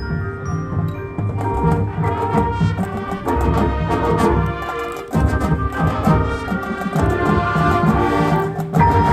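High school marching band playing: brass and woodwinds holding sustained chords over a steady drum-line beat.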